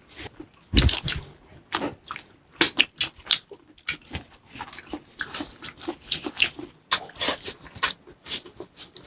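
Close-miked chewing and mouth sounds of people eating: irregular sharp smacks and crunches, several a second.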